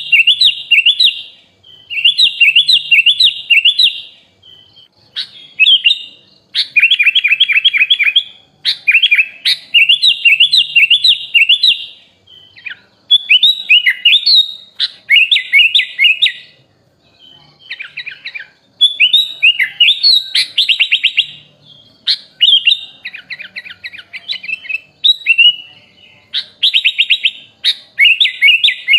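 Sooty-headed bulbul (kutilang) singing a long, varied song: rapid trilled and chattering phrases, each a second or two long, separated by short pauses.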